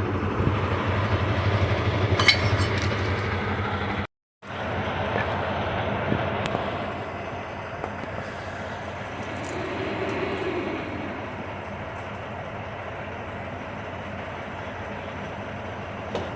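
Semi truck's diesel engine running at idle, with a few metallic clinks about two seconds in. The sound drops out for a moment about four seconds in, then the idle carries on more quietly.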